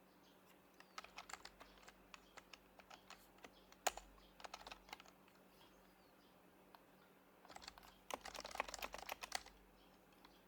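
Typing on an HHKB Professional Hybrid Type-S keyboard with quiet Topre switches. There are irregular keystrokes for a few seconds, with one louder stroke about four seconds in, then a pause and a quick, dense burst of typing near the end.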